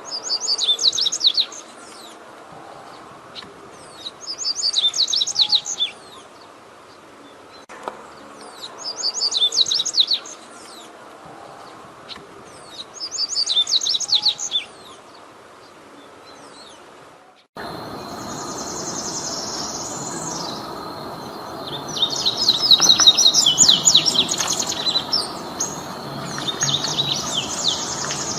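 Double-collared seedeaters singing the 'tui tui' song: short phrases of rapid high chirps, repeated about every four seconds. About seventeen seconds in, the recording cuts to a noisier one with a steady high tone behind it, and the song comes in longer bursts.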